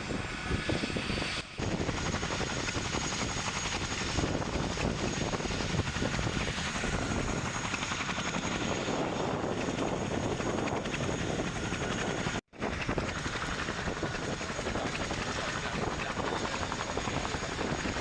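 Helicopter running steadily, a dense rotor and engine noise with a thin high whine. It cuts out for an instant about twelve seconds in.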